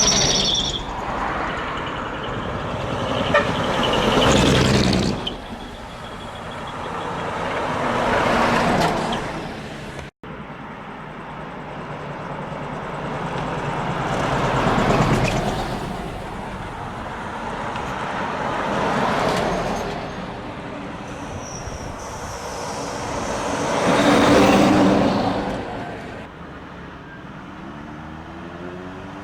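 Big decorated trucks with split exhaust manifolds (mani-wari) driving past one after another, each exhaust note swelling up and fading away, about five passes in all. A horn tone sounds briefly right at the start.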